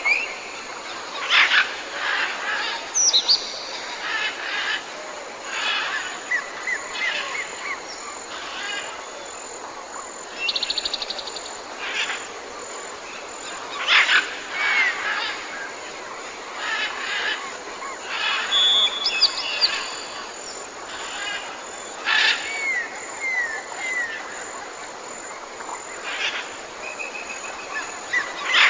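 Several wild birds calling and singing over a steady background hiss: many short chirps and whistled notes, some sharp loud calls, and a quick trill about ten seconds in.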